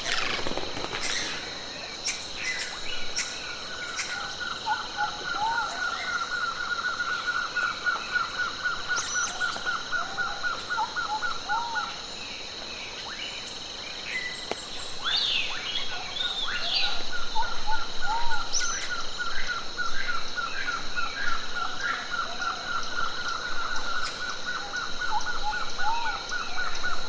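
Wild birds calling and singing: a fast series of short repeated notes, about four a second, breaks off about twelve seconds in and starts again a few seconds later, among other scattered chirps and calls over a steady high-pitched tone.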